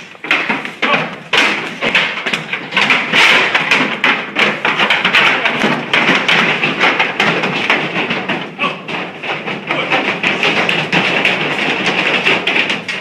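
Cattle hooves clattering and thumping in a dense, irregular run of knocks, as a group of cows moves over a hard floor.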